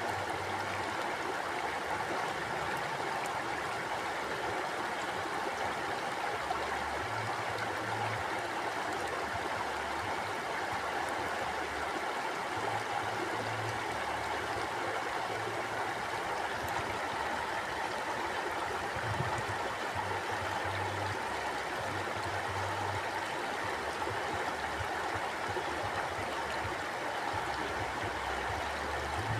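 Stream water flowing and gurgling steadily, with an intermittent low rumble underneath.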